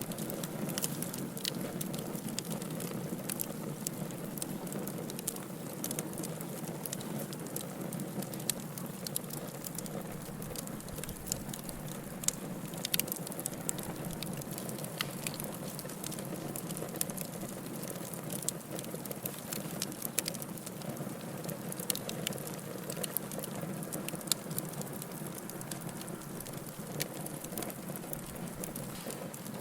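Wood fire crackling in a fireplace: a steady hiss of burning with frequent sharp, irregular pops and snaps.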